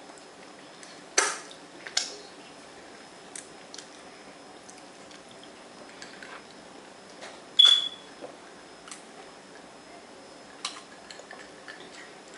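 Close-up chewing: a few sharp mouth clicks and smacks spaced over the seconds. A little past halfway comes the loudest sound, a single bright clink with a short ring from the glass of ice water.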